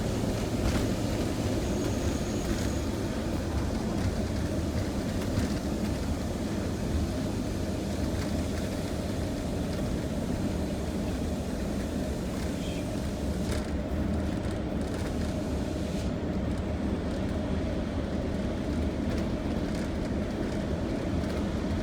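Steady engine and road noise heard from inside a vehicle's cab while it drives along a mountain highway.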